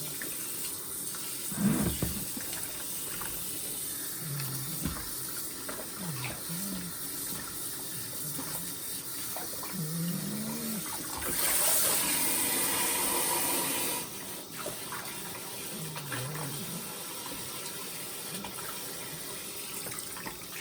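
Water running during a dog's bath, a steady hiss that grows louder for about three seconds past the middle. A few short, low, wavering sounds come in between.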